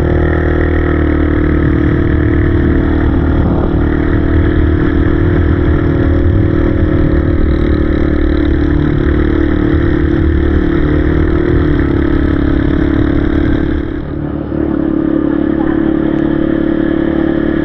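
Yamaha XSR155's single-cylinder engine running steadily under way, with wind and road noise. Near the end the engine sound dips briefly, then picks up again at the same steady pitch.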